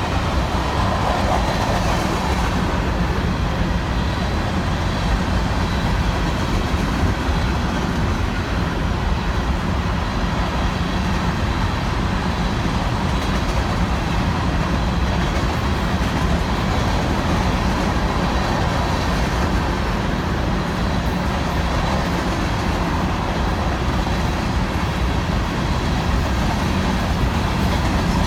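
Union Pacific freight train rolling past with a steady rumble of wheels on rail.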